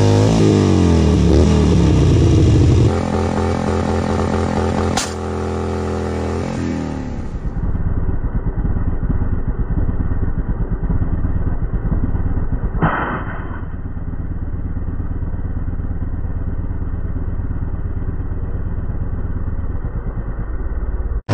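Harley-Davidson V-twin engine held at high revs in a burnout, its pitch falling over the first couple of seconds, with a sharp crack about five seconds in. The engine then runs on steadily at lower revs, with a short burst of noise about halfway through.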